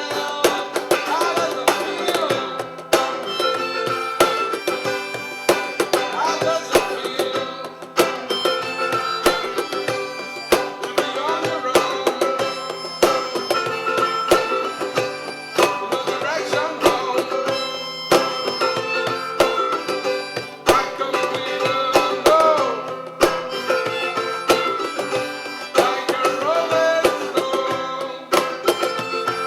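A small acoustic band playing an instrumental passage: an acoustic guitar and hand percussion, with a melody line on top that bends in pitch. The percussion strikes come often and sharply.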